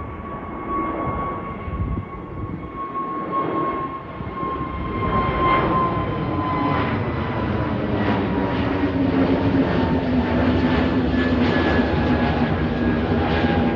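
A departing airliner's engines with a steady whine that slowly falls in pitch over a broad rumble, growing louder about five seconds in.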